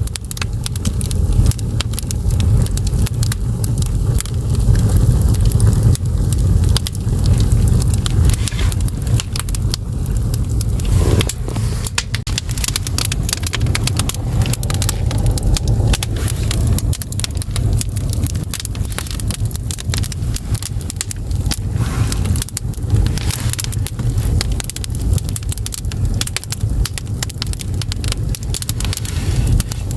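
Firewood burning in an agungi, a traditional Korean ondol firebox. A steady low rumble of the flames runs under frequent irregular sharp crackles and pops from the logs.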